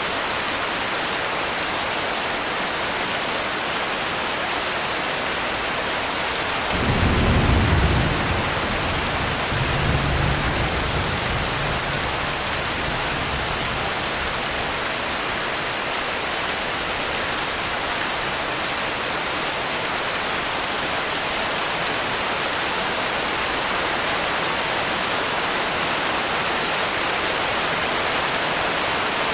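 Steady rain hissing, with a roll of thunder about seven seconds in and a second, weaker rumble following that fades out a few seconds later.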